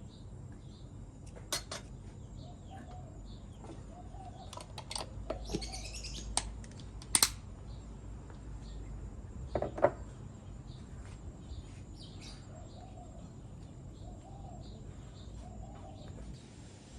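Birds chirping over and over in the background, broken by a handful of sharp clicks and knocks of cooking utensils, the loudest about seven and ten seconds in.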